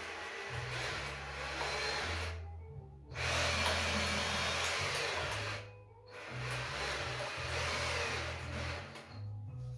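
A power tool running in spells, stopping briefly twice, over background music with a steady bass line.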